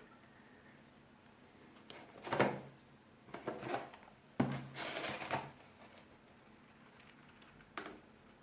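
Handling noises: several short bursts of rustling and clatter, the longest about halfway through.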